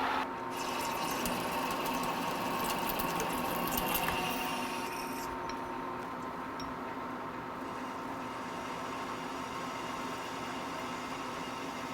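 A machine tool's motor running steadily with a hum, with light ticks and scraping over the first five seconds before it settles.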